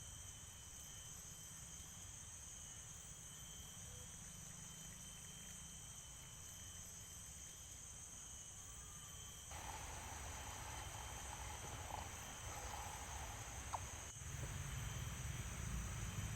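Night insect chorus of crickets in tropical forest: steady, high-pitched trilling. About nine seconds in a wider hiss joins it, with a few faint clicks.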